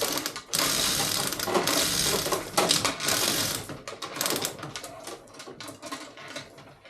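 Rapid metallic rattling and clicking from a mechanism, dense for about the first three seconds, then thinning to scattered clicks.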